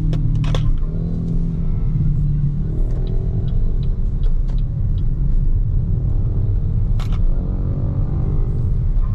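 Steady low rumble of tyres and road noise from a moving BYD Seagull electric car, with no engine note, and a few sharp clicks, the loudest about seven seconds in.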